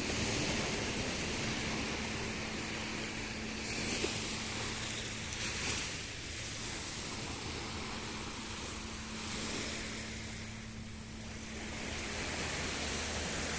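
Sea water washing and surging in swells every few seconds, with wind, over a steady low motor hum.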